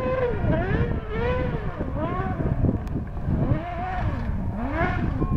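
Rally buggy's engine revving hard through a gravel corner, its pitch climbing and falling back about once a second as the throttle is worked.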